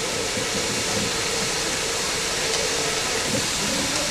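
Steam locomotive standing in steam, giving off a steady hiss of escaping steam.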